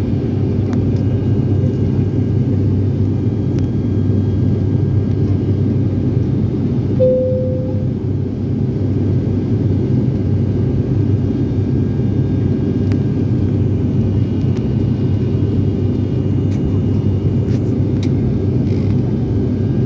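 Steady drone of an airliner's engines and airflow, heard from inside the passenger cabin in flight, with one brief steady tone about seven seconds in.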